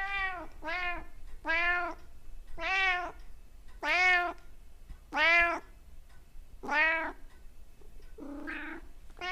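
Domestic cat meowing over and over, about eight calls roughly a second apart, each rising then falling in pitch; the call near the end is rougher and hoarser.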